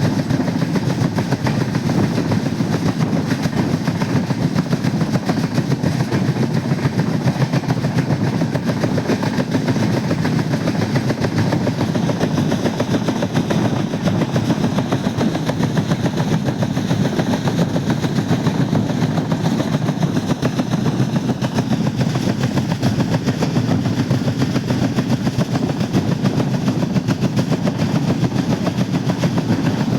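Passenger train running at speed: a steady low rumble with a fast, continuous rattling clatter from the wheels and carriage.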